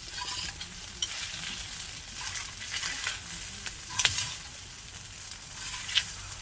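Kimchi and sundae frying on a camping griddle, sizzling steadily, while a utensil stirs and scrapes them with several sharp clicks against the pan, the loudest about four seconds in and another near six seconds.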